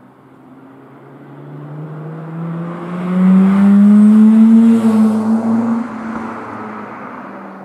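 Mazda RX-8's Renesis two-rotor rotary engine as the car drives past under acceleration. The engine note climbs slowly in pitch as the car approaches, is loudest about three to five seconds in, and fades as it goes away.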